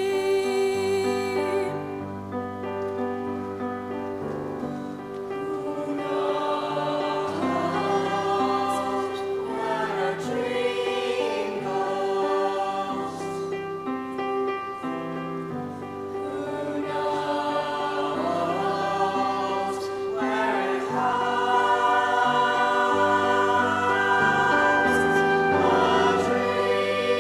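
Choir singing a song with instrumental accompaniment, swelling louder in the second half.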